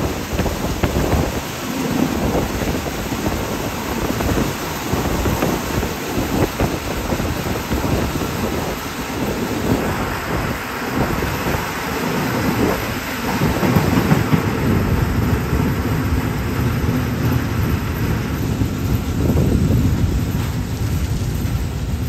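Passenger train running, heard from inside the carriage: a steady rumble of wheels on track mixed with a rush of air noise, swelling a little in the second half.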